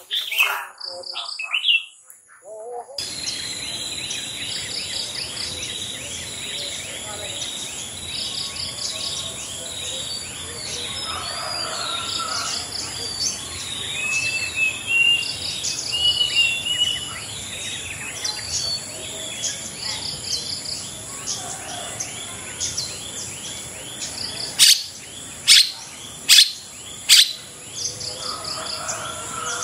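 Long-tailed shrike (cendet) singing and calling over a steady high insect buzz, a busy run of quick repeated chirps and phrases; near the end come four loud, sharp calls a little under a second apart.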